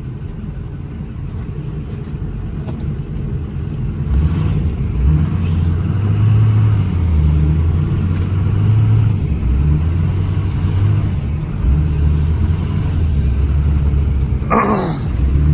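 Ford 6.0 Powerstroke turbo-diesel V8 in a 1979 F-250 running at high revs with a heavy low drone, getting louder about four seconds in. Near the end there is a brief falling whine.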